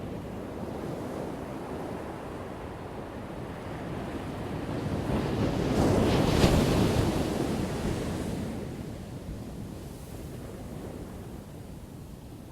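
Ocean waves crashing on a shore: a steady low rush of surf, with one wave building, breaking loudest about six seconds in, and washing out over the next few seconds.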